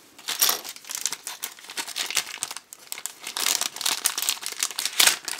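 Crinkling of a blind-bag wrapper being handled and rummaged through, in irregular crackly bursts with a louder rustle about five seconds in.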